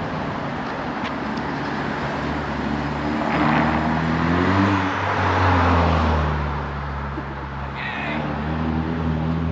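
Muffler-deleted 2021 Ford Mustang EcoBoost, its 2.3-litre turbocharged four-cylinder, accelerating past. The exhaust note climbs in pitch and is loudest about halfway through as the car goes by, then eases to a steadier engine tone.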